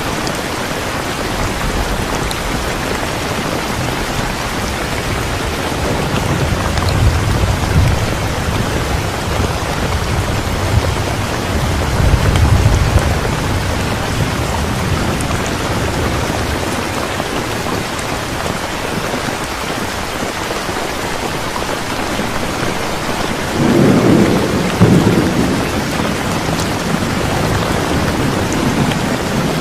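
Steady heavy rain falling, with low rumbles of thunder swelling three times: a few seconds in, around the middle, and near the end.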